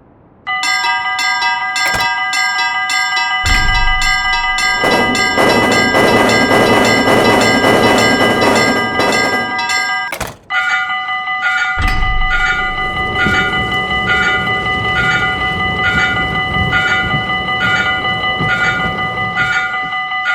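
Level-crossing warning bells ringing steadily while a train rumbles past. Near the middle the sound cuts to a second crossing bell with a slower, pulsing ring, and another train passes.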